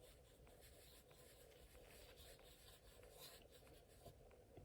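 Near silence, with faint brushing of a watercolour brush on a card postcard as a wet wash is laid on.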